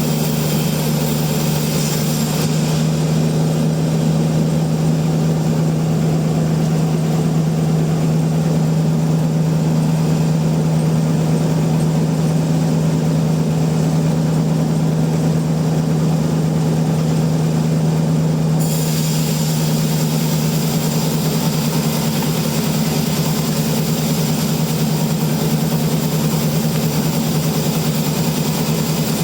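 Heavy sawmill machinery engine running steadily with a constant low hum. The high hiss above it drops away a couple of seconds in and comes back past the middle.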